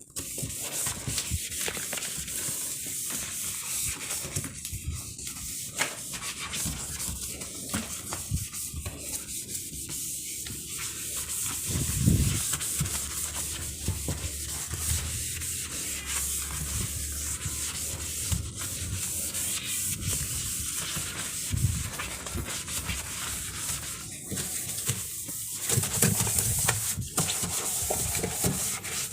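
Steady scrubbing: a sponge or cloth rubbing back and forth over a surface, with a few soft knocks along the way.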